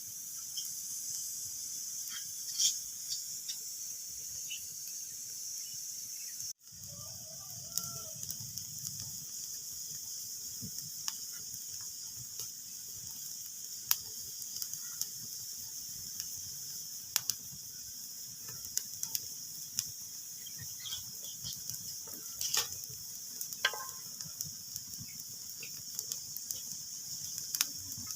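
Wood fire crackling in a fireplace: a steady hiss with many scattered sharp pops. The sound cuts out for an instant about six and a half seconds in.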